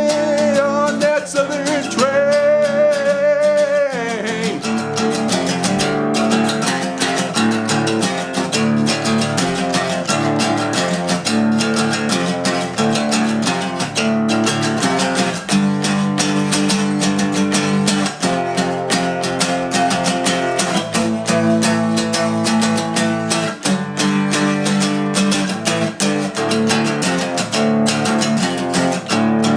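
Acoustic guitar strummed steadily through an instrumental passage, with a long held sung note with vibrato about two seconds in.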